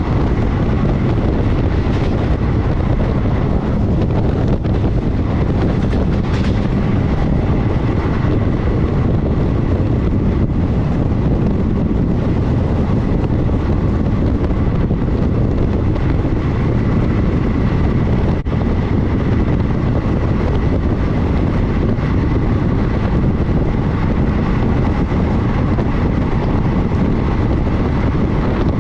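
Passenger train running at speed, heard from on board: steady rolling noise of the wheels on the rails mixed with wind on the microphone.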